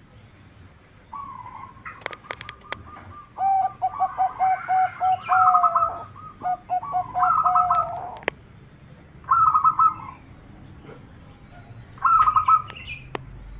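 Zebra dove (perkutut) cooing: a rapid run of short, evenly repeated notes lasting several seconds, followed by two shorter bouts.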